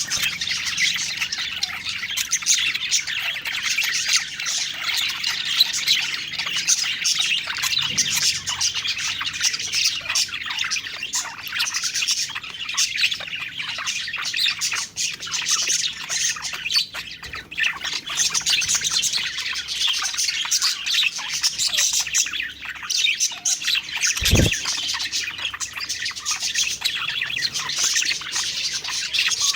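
A flock of budgerigars chirping and warbling continuously, with overlapping high chatter and occasional squawks. A brief low thump comes about 24 seconds in.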